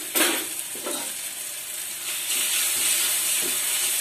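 Tomato and onion masala sizzling in hot ghee in a kadhai as a spatula stirs in the freshly added ground spices to roast them. There is a sharp knock just after the start, and the sizzle grows louder a little past two seconds in.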